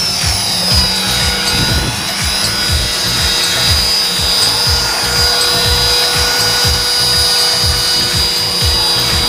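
Small electric remote-control helicopter's motor and rotor whining steadily, over music with a steady beat.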